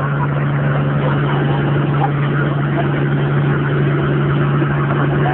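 Dodge Cummins inline-six turbo-diesel running steadily without revving: a constant low drone at one pitch, with a dense clattering noise above it.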